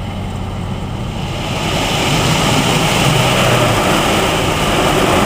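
Automatic car wash machinery heard from inside the car: a loud, steady rushing roar with a low hum underneath, swelling over the first two seconds and then holding.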